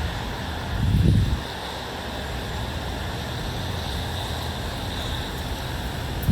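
Outdoor wind ambience: a steady even hiss, with a short low rumble of wind buffeting the microphone about a second in.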